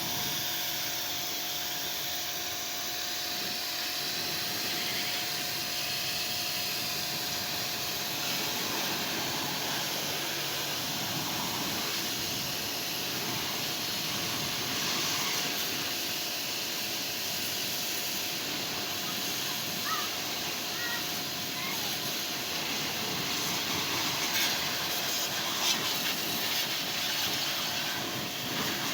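Car wash equipment running: a steady hiss of spraying water over a constant machine hum, with a few brief knocks near the end.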